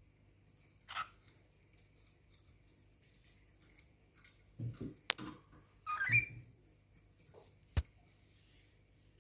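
Cockatiel giving two short chirps, about a second in and about six seconds in, with a few sharp clicks and soft thumps between them.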